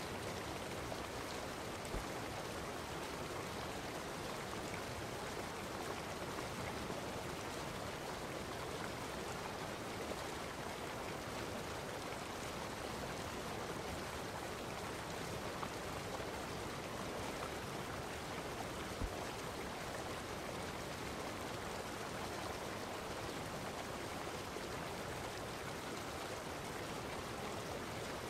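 Steady rushing of flowing water, with two faint clicks, one about two seconds in and one near the twentieth second.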